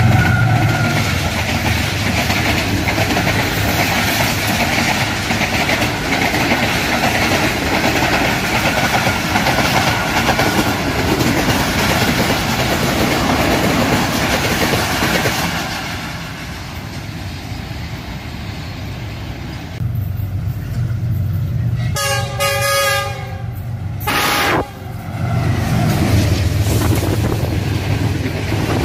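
Diesel-hauled express passenger trains passing close by a platform, the coaches rumbling and clattering over the rails. About 22 seconds in a locomotive horn sounds for two seconds or so, and then another train's coaches rush past.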